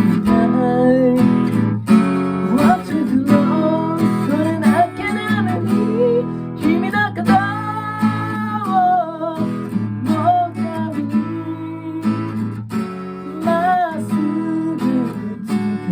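Acoustic guitar strummed with a voice singing a melody over it: a song performed to one's own guitar accompaniment.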